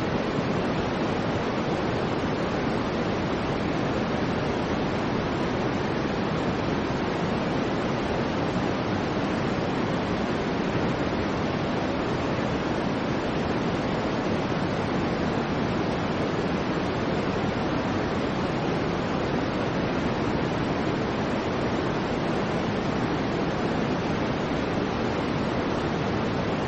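Soft white noise for sleep: an even, unchanging hiss, fuller and warmer in the lower range with no sharp highs.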